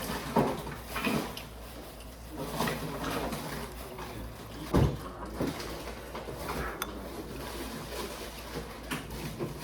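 Scattered light knocks and clicks over a low steady hum, with one louder thump about five seconds in.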